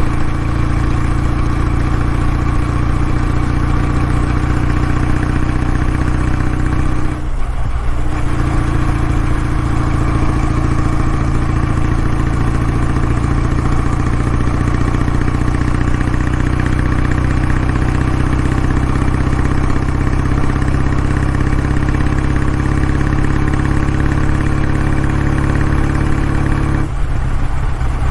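Kawasaki W650's air-cooled parallel-twin engine running at steady revs, heard through its exhaust. The note breaks off briefly about seven seconds in and again near the end, then resumes at a slightly different pitch.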